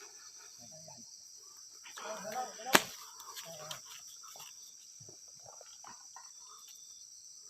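Crickets and other night insects chirring steadily at night, with one sharp crack about two and three-quarter seconds in.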